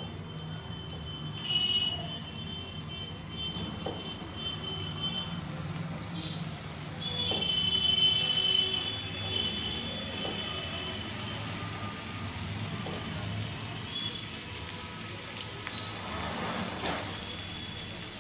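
Marinated chicken pieces sizzling and crackling in hot butter and oil as they are laid into the pan, with a few clicks of the pieces and utensils. High steady tones sound over it for a few seconds at a time, loudest about eight seconds in.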